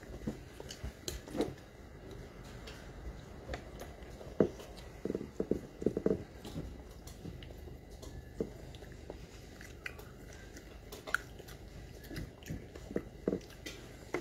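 Chewing and biting food close to the microphone, with scattered short clicks and knocks and a denser run of them about four to six seconds in.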